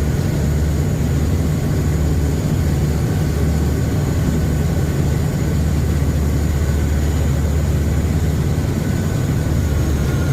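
A riverboat's engines running steadily under way, heard on board as a loud, even low drone with a faint steady whine above it.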